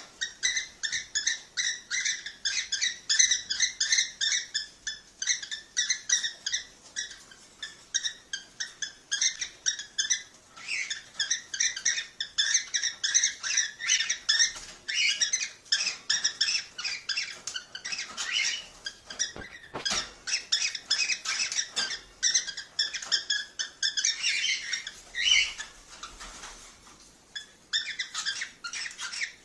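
Cockatiels calling: a fast, continuous run of short, shrill chirps and whistles, about three or four a second, easing off briefly near the end.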